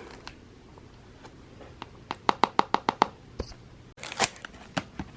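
Packaging being handled and torn open to unwrap a pair of socks: a quick run of crisp crackling clicks a little after two seconds in, then a few scattered crackles.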